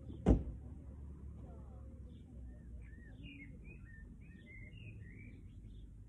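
Wild birds chirping in a run of short, quick calls through the second half, over a steady low rumble. A single sharp knock just after the start is the loudest sound.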